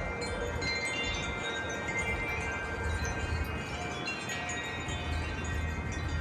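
Metal wind chimes ringing in gusty wind, many overlapping notes struck again and again and left to ring, over a low rumble.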